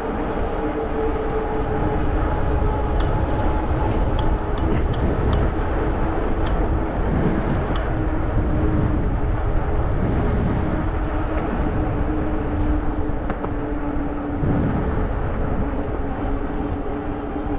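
Wind rushing over an action camera's microphone and fat tyres rolling along a trail on a moving e-bike, with a steady hum underneath. A few sharp ticks come between about three and eight seconds in.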